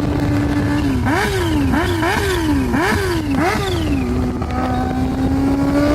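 Kawasaki Ninja H2R's supercharged inline-four running at a steady pitch, then revved hard about five times in quick rises and drops about a second in. It then settles to a steady tone that slowly climbs near the end.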